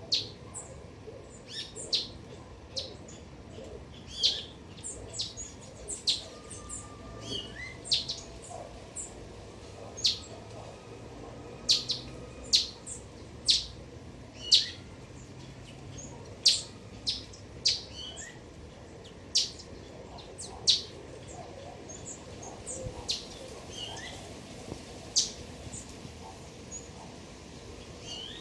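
Garden birds chirping: short, sharp high calls at irregular intervals, about one every second or two, some in quick pairs.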